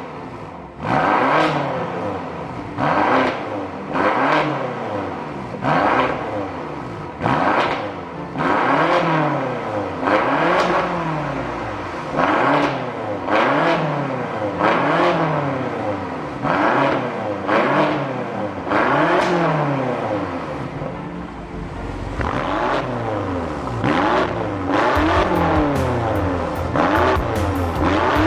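BMW F86 X6M's twin-turbo 4.4-litre V8 revved again and again in short blips through an exhaust with gutted mid-pipe and end mufflers set for maximum volume. The pitch rises and falls every second or two. Near the end the revs come quicker, with a rattle of sharp crackles.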